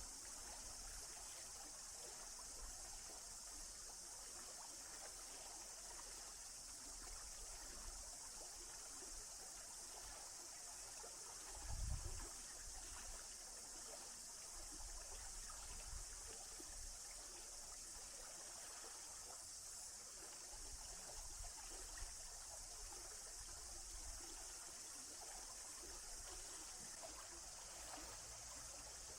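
A small stream trickling and running steadily, faint, with a steady high hiss. There is a brief low thump about twelve seconds in.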